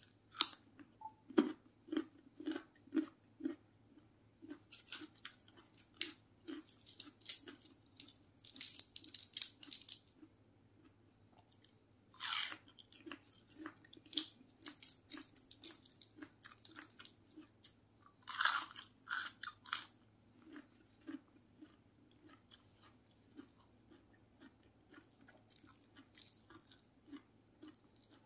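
A person chewing and crunching raw vegetables such as carrot close to the microphone: steady chewing about two to three times a second, with crisp crunches and a few louder, longer crunches near the middle.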